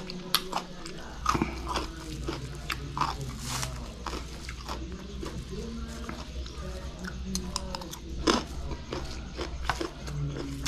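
Close-up mouth sounds of chewing and crunching crisp raw vegetables with rice, with a few sharper crunches or spoon clicks now and then.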